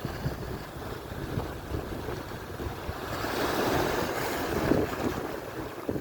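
Atlantic surf washing onto the shore, a wave swelling louder about halfway through, with wind buffeting the microphone.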